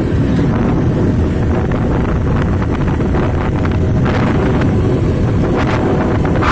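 Steady, loud rumble of truck traffic on the road, with wind buffeting the microphone.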